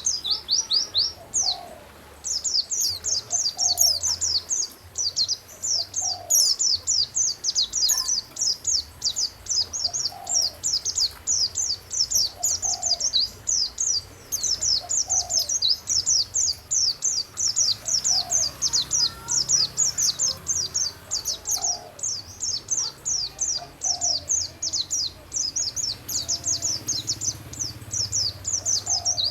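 Songbird singing a fast, unbroken run of high, falling chirps, with a lower short call repeating about every two seconds: a recorded birdsong tutor track (masteran) used to train captive songbirds.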